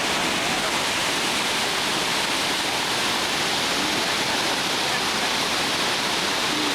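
Whitewater rapids on a river, rushing steadily.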